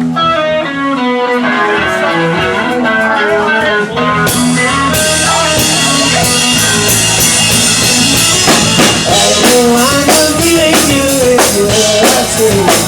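Live rock band playing the instrumental opening of a song: picked electric guitar notes, with the drum kit and cymbals coming in about five seconds in.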